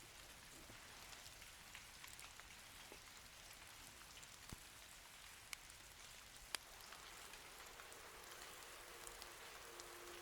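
Steady light rain falling, with scattered drops ticking and a few sharper clicks around the middle.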